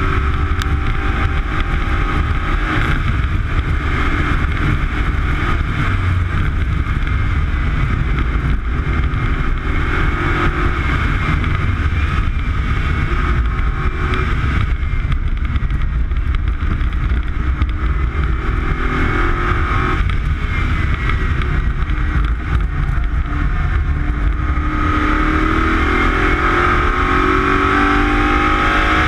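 BMW racing car's engine heard on board, running hard at speed over a heavy low rumble of wind and road noise. Its pitch climbs as it accelerates near the end.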